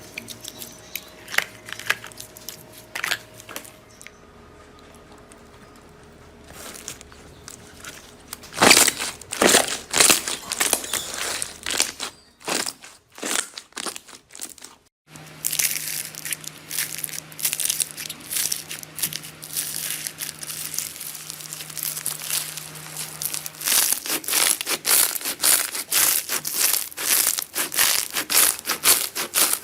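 Hands squishing, pressing and poking slime: dense runs of small sticky crackles and pops. The texture changes abruptly several times as one short clip follows another.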